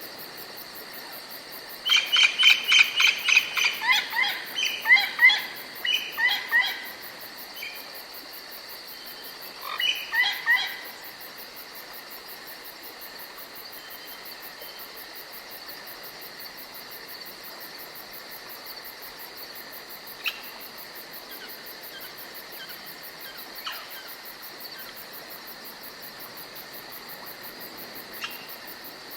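Forest ambience: a steady high insect chorus, with a songbird singing a loud run of rapid repeated notes about two seconds in and another short run around ten seconds. A few single chirps follow later.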